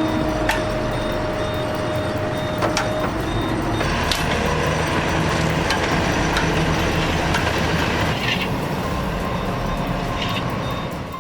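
Heavy machinery engine running steadily, with a high-pitched beep repeating rapidly in the first few seconds and again near the end, and a few sharp knocks.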